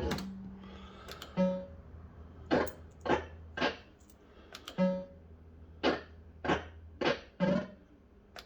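Bell-Fruit Wild Cats fruit machine's electronic sound effects during play: a run of short bleeping tones, roughly two a second, with sharp clicks among them, over a steady low hum.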